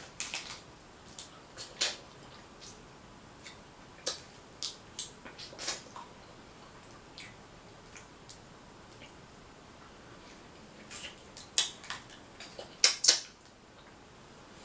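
Crab shells cracking and snapping as they are broken open by hand for eating: a scatter of sharp clicks and cracks, loudest in a quick cluster of snaps near the end.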